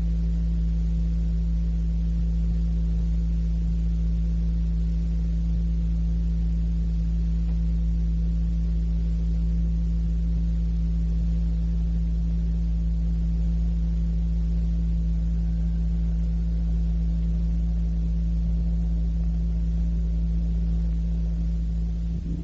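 Steady electrical hum on a cassette recording: a loud low drone with several steady tones stacked above it, unchanging, that breaks off and falls away right at the end.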